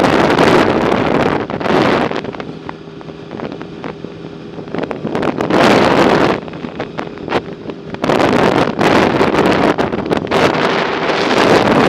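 Wind buffeting the microphone in loud gusts, about four of them, over a faint steady low hum.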